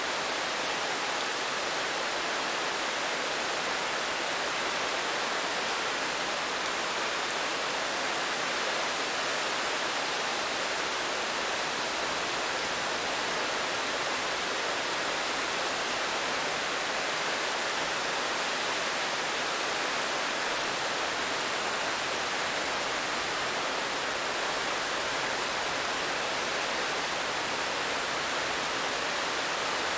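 Steady rain, a continuous even hiss with no distinct drops or changes.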